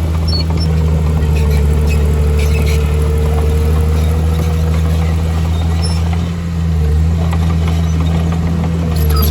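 Heavy construction machine's diesel engine running steadily with a deep hum, dipping briefly a little past six seconds, with faint clinks over it.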